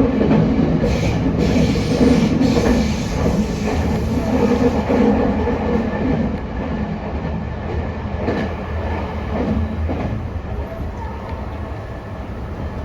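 Meitetsu electric train running along the track, heard from on board: a steady rumble with wheels clacking over rail joints and a faint steady whine. It grows a little quieter in the second half.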